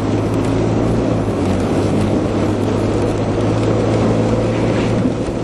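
Four-wheel-drive vehicle's engine running steadily under load as it climbs a snow-covered hill, with steady tyre and road noise from the snowy surface.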